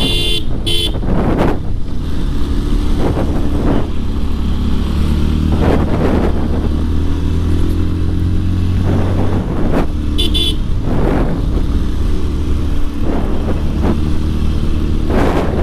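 Motorcycle engine running steadily while riding uphill, with wind rushing on the helmet microphone. Short horn beeps sound near the start and again about ten seconds in.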